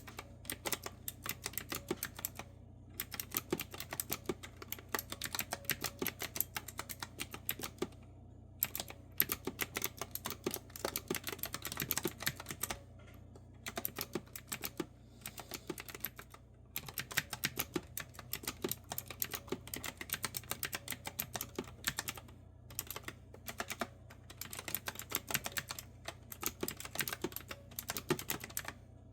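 Clicky retro-style keyboard with round keycaps being typed on: quick runs of crisp keystroke clicks broken by brief pauses. A faint steady low hum sits underneath.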